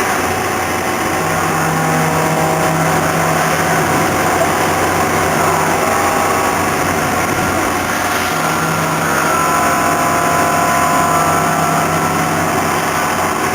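Okuma MCV16A double-column vertical machining center running under power: a steady mechanical hum, with a motor tone that comes in twice for a few seconds each, the second time with a higher whine on top, as the machine moves.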